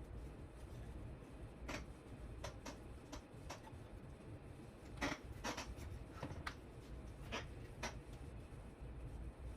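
About ten light clicks and taps, irregularly spaced, from small parts being handled, over a faint steady low hum.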